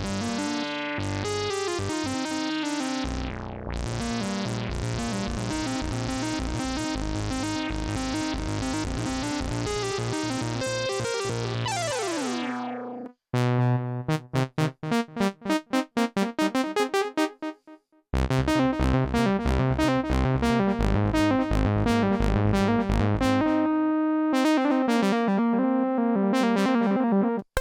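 Polymax software synthesizer playing preset demos: one sustained, rhythmically pulsing patch for about thirteen seconds, then after a short break a choppy staccato pattern of repeated notes, then after another brief gap a third patch that cuts off abruptly near the end.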